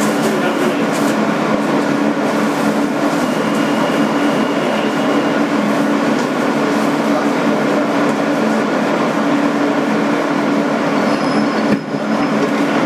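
Inside a 2008 Kawasaki R160B subway car: a steady rumble with two steady low hum tones running through it. The loudness dips briefly near the end.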